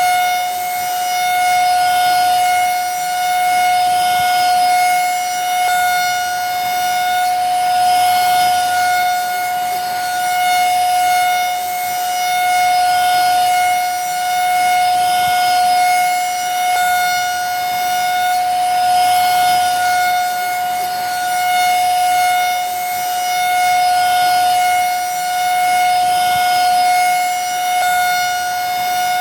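Vacuum cleaner running steadily: a constant high motor whine over the hiss of rushing air, the level swelling and easing about every two seconds.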